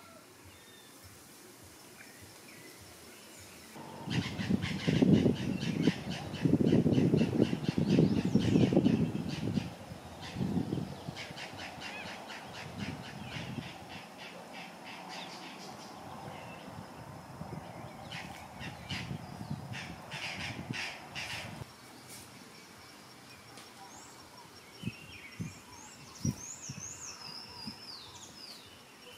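A group of birds calling loudly and harshly in a rapid chorus, starting about four seconds in and loudest for the next six seconds, then breaking into weaker bursts that die away after about twenty seconds. Near the end, a few thin, high chirps from a smaller bird.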